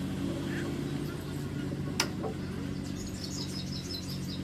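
Birds chirping in a quick run of short high notes near the end, over a steady low mechanical hum, with one sharp click about two seconds in.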